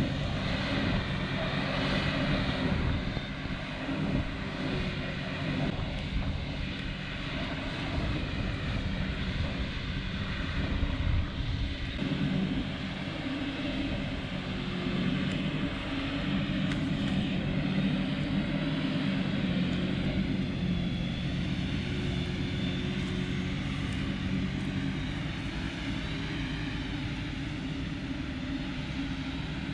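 Large diesel engine of silage-harvest machinery running steadily under load, a continuous low drone.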